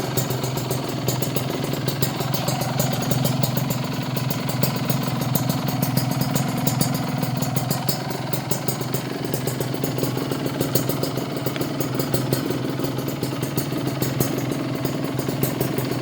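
Kawasaki Ninja RR 150 two-stroke single-cylinder engine idling steadily through an aftermarket Eighty Racing exhaust, with a fast crackling two-stroke beat; the engine is not yet fully warmed up.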